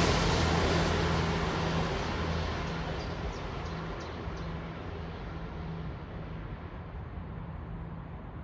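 Diesel passenger train moving away, its low engine hum and running noise fading steadily. A few faint high ticks come about three to four seconds in.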